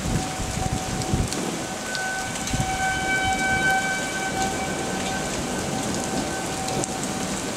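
Tornado warning siren sounding one steady, unwavering note that swells in loudness through the middle and fades near the end. Underneath it is a steady hiss of rain.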